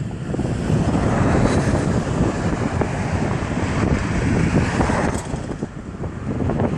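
Wind buffeting the microphone during a bicycle ride, a dense rumbling rush, with one sharp click about five seconds in.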